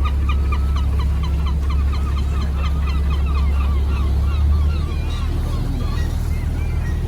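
Many seabirds at a nesting colony calling together, a rapid run of short repeated cries, over the steady low hum of a tour boat's engine, which eases slightly about two-thirds of the way through.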